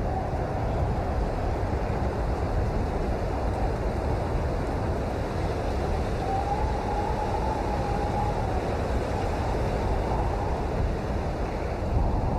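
Steady rain falling, an even dense hiss with a deep low rumble underneath.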